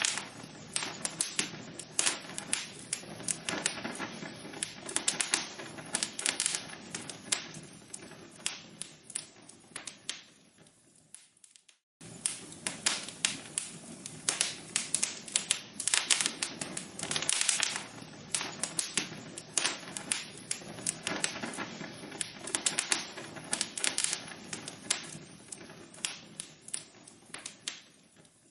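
Logs burning in a fireplace, crackling and popping: dense sharp pops over a soft hiss. The crackle thins and fades to a moment of silence about eleven seconds in, starts again suddenly at full strength, and thins out again near the end.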